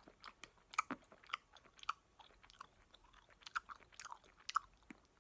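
A person chewing a Sour Patch Kids gummy candy: faint, irregular wet clicks and smacks of the mouth.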